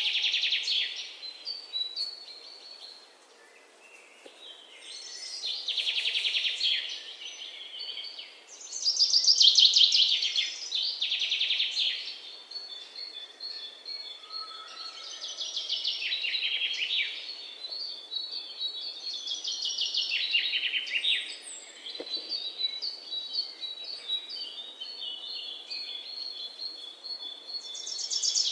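Small birds singing: bursts of rapid chirping trills every few seconds, with a thin, steady high note running on through the second half.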